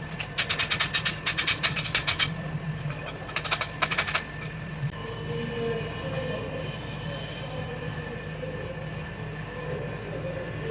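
Rapid runs of sharp strikes, about seven a second, in three bursts over the first four seconds, then a steady mechanical hum with faint high tones.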